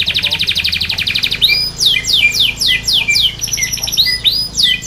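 Domestic canary singing: a fast, high trill, then a run of quick, falling whistled notes at about three a second, broken by a brief high trill about halfway through.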